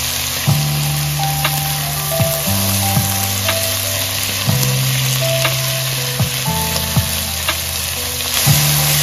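Sliced onions, tomatoes and green chillies sizzling in hot oil in a pot while a spatula stirs them.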